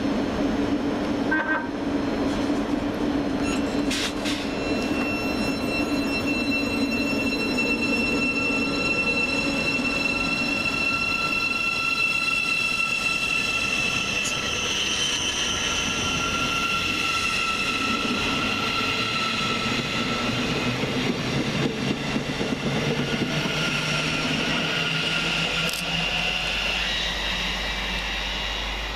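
Class 717 electric multiple unit running through the station, its electric traction gear giving a whine of several high tones over the rumble of wheels on rail.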